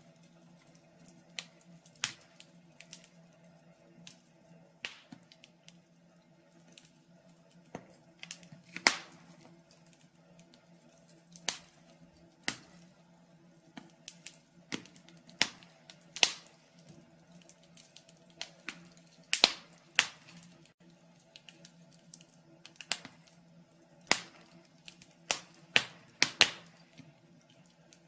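Wood fire crackling in a fireplace: irregular sharp snaps and pops, a few of them much louder, over a faint steady low hum.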